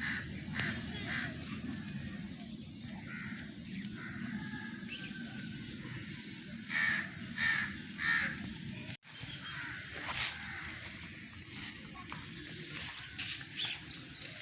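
Crows cawing among other birds calling, with repeated short, high thin notes, over a steady low rushing background. The sound drops out briefly about nine seconds in.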